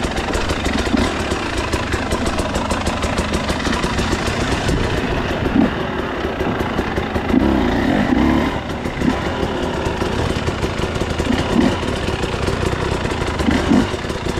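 A KTM 300 EXC TBI's two-stroke single-cylinder engine running steadily near idle, rising briefly a few times.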